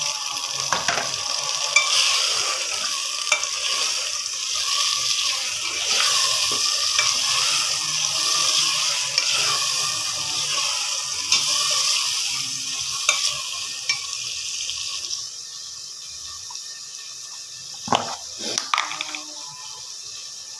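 Chopped tomatoes and green chillies sizzling in hot oil in a metal handi pot while a steel spoon stirs them, clicking and scraping against the pot. The sizzle dies down about three quarters of the way through, and a few sharp knocks follow near the end.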